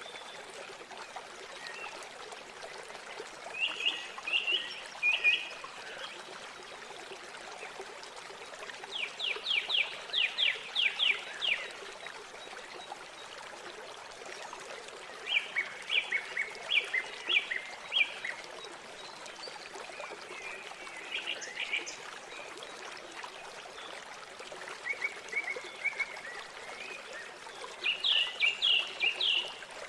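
A songbird repeating short phrases of rapid high notes every few seconds over the steady rush of flowing river water.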